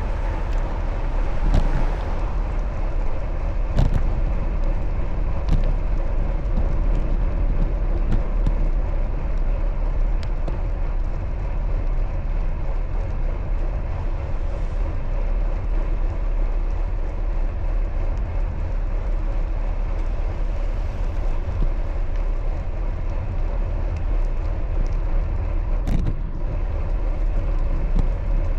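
Steady rushing noise of riding a bicycle: wind over the microphone and road noise, with a couple of faint clicks.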